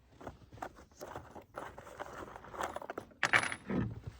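Irregular small metallic clinks and rattles, like loose metal pieces being handled, with a louder rattle about three seconds in.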